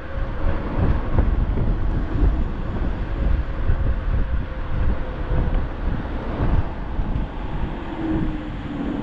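Wind rushing and buffeting over the microphone on a moving e-bike, a steady low rumble that rises and falls. A faint hum dips slightly in pitch near the end.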